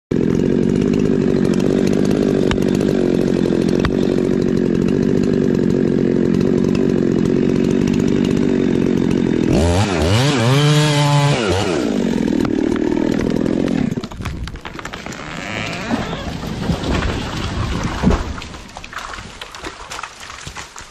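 Husqvarna 390 two-stroke chainsaw running at high throttle, bucking a log, its pitch steady for about nine seconds. Around ten seconds in the pitch swings down and back up, then the saw drops away to a much quieter stretch with scattered knocks.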